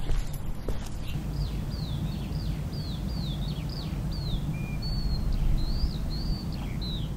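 Birds chirping: a run of short, quick downward-sweeping chirps, about two a second, with a few held notes, over a steady low ambient rumble. A couple of footsteps sound in the first second.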